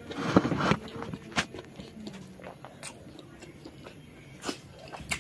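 Eating sounds of someone eating rice and curry by hand: chewing and mouth noises, busiest in the first second, with a few scattered sharp clicks.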